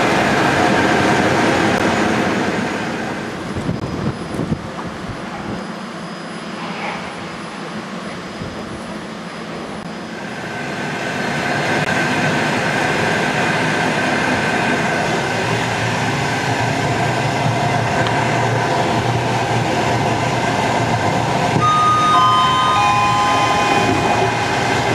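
Passenger train heard from inside a carriage: steady running noise that drops away for several seconds and then builds up again. Near the end, a short falling three-note chime from the on-board public address system comes just before an announcement.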